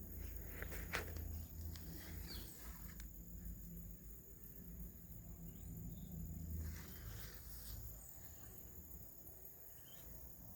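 Insects in the field, making a steady, unbroken high-pitched trill, over a low rumble, with a few soft rustles and clicks and faint short chirps.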